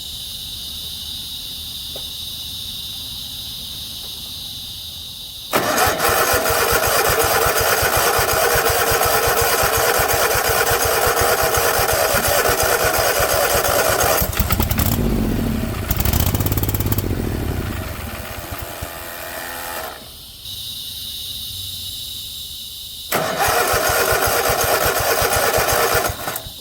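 A small mower engine, fed a shot of carb cleaner, starts and runs for several seconds; its speed wavers and it dies. It catches again briefly near the end and dies again: it runs only on the spray, which the owner puts down to a failing fuel pump and a clogged carburetor jet. Crickets chirp steadily throughout.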